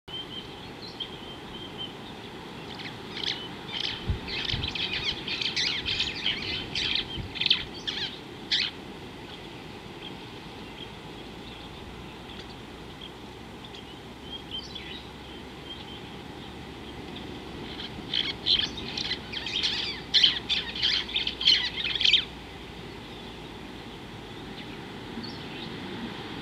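Wild bird calls: two bursts of rapid, high chattering notes, the first a few seconds in and lasting about six seconds, the second starting about eighteen seconds in and lasting about four. They sit over a steady low outdoor rush and a faint steady high tone.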